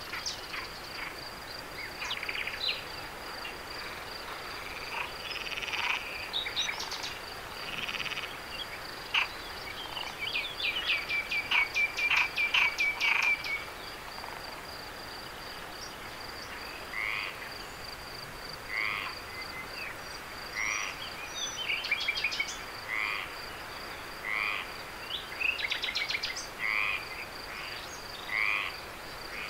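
Frogs calling at night: short repeated croaking calls, with a fast clicking trill about ten seconds in, over a steady high-pitched insect trill.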